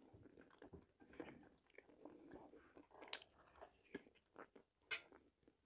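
A person chewing food with the mouth close to the microphone: faint, scattered wet smacks and clicks about once or twice a second.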